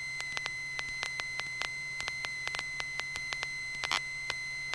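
A steady high-pitched electrical tone, with a low hum beneath it, crossed by irregular sharp clicks and crackles: interference in the aircraft's headset and intercom audio feed, with little of the engine coming through.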